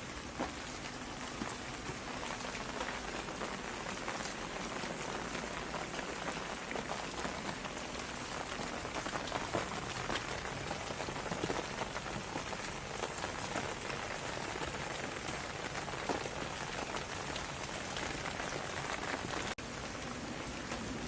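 Steady rain falling on a surface, an even hiss dotted with many close individual drop hits. The sound cuts out for an instant near the end, then carries on unchanged.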